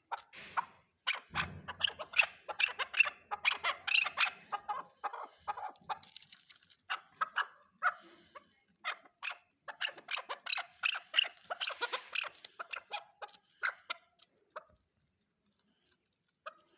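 Chukar partridge calling: rapid runs of short, sharp clucking notes, dense for most of the time and thinning to a few scattered notes near the end.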